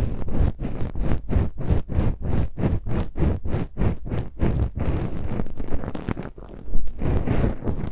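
Ear pick scratching and rubbing inside an ear, close to the microphone, in quick repeated strokes of about four a second that blur into steadier rubbing in the last few seconds.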